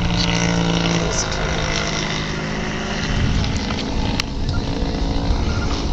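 Giant-scale model aerobatic airplane's engine running in flight, holding a steady note for about a second, then fading into an uneven rumble as it moves away.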